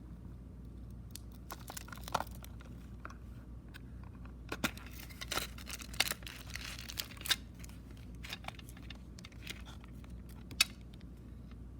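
Cellophane wrapper being torn and crinkled off a cassette tape case in irregular rustling bursts, with scattered sharp clicks and one sharper click near the end.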